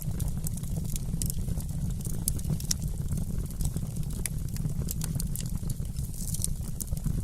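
Wood fire crackling, with many sharp, irregular pops and snaps over a steady low rumble.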